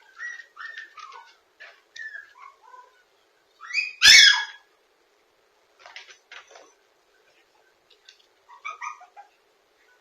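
Toy poodle puppy crying: a string of short, high-pitched squeals and whimpers that fall in pitch, with one much louder cry about four seconds in.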